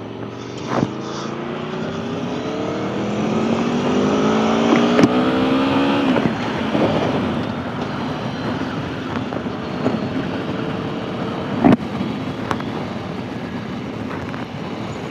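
Aprilia Tuono V4 1100 Factory's V4 engine pulling away under acceleration, its note rising for about six seconds and then dropping at a gear change, with wind noise and a few sharp knocks.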